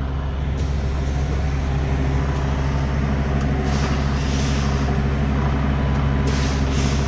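Semi-truck diesel engine running steadily, getting a little louder, with two short hisses of air, about four and six seconds in.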